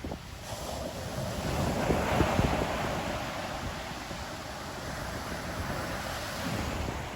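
Ocean waves breaking on the shore: a wave swells up, peaks about two seconds in, then settles into a steady wash of surf. Wind buffets the microphone underneath.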